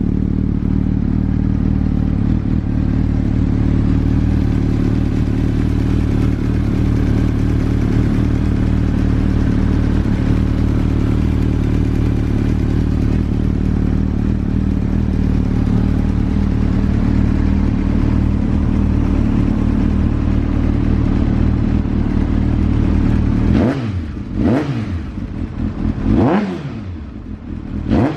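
Honda CB1000SF's inline-four engine running at a steady idle through an aftermarket WM carbon muffler, then revved in a few quick throttle blips near the end, each rising and falling sharply in pitch.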